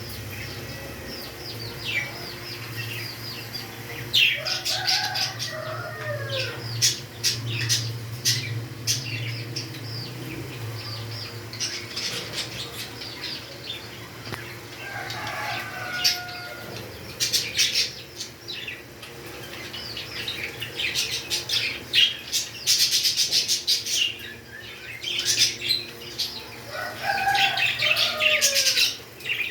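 Pet parrots calling: many short, shrill chirps in quick runs, with a few whistled calls that glide up and down in pitch. A low steady hum sits under the first third.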